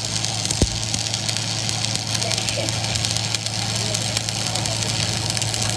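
A machine running steadily: a low, even hum under a dense hiss, with a single dull thump about half a second in.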